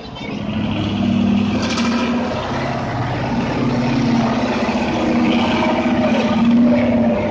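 Diesel truck engine running steadily under load, getting louder over the first second as it draws nearer, then holding.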